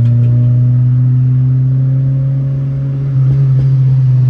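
Turbocharged Honda Civic's four-cylinder engine pulling under load with a steady note, rising slowly in pitch and getting louder about three seconds in.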